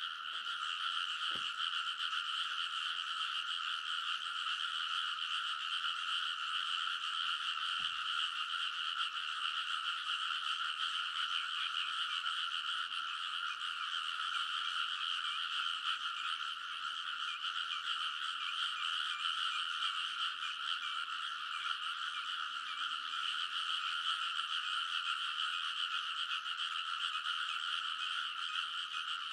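A dense chorus of many rice-paddy frogs croaking at once, with the calls overlapping into one continuous, steady din.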